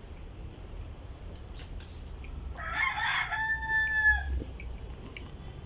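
A rooster crowing once, about two and a half seconds in: a rough, noisy start that settles into a long held note lasting about a second and a half.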